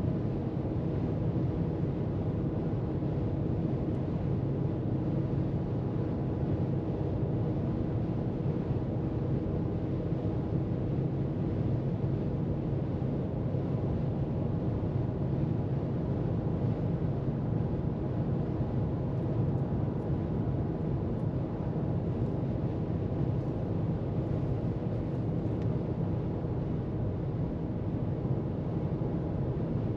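Car cruising at steady freeway speed: an even, low rumble of road and tyre noise that holds unchanged throughout.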